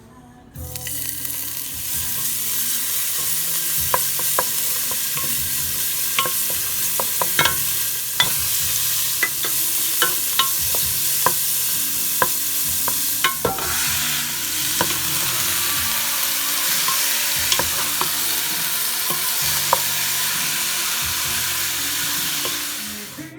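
Food sizzling in a hot frying pan while it is stirred, the utensil clicking sharply against the pan every second or so. The sizzle starts suddenly about half a second in.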